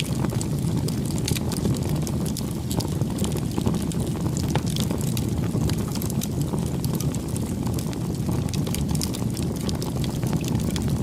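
Wood bonfire burning: a steady low rumble of flames with many small, quick crackles and pops of burning wood scattered throughout.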